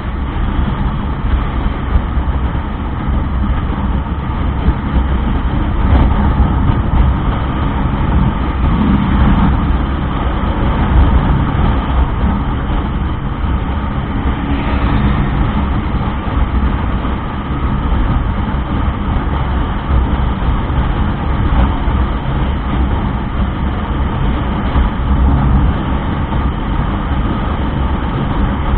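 A motorcycle riding along steadily, its engine and road noise mixed with heavy wind rumble on the microphone.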